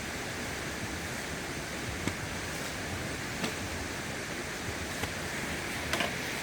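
Steady rushing of a stream, with a few brief sharp clicks scattered over it.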